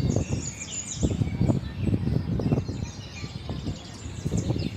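Many small birds chirping and twittering at once, with an uneven low rumble on the microphone underneath.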